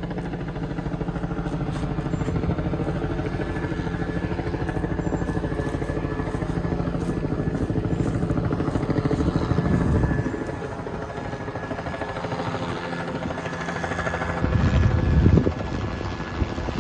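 Helicopter passing overhead: a steady, rapid rotor chop that eases after about ten seconds, with a couple of louder low rumbles near the end.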